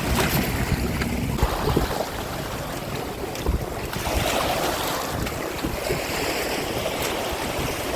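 Sea waves washing on the shore, with wind rumbling on the microphone, heaviest in the first two seconds.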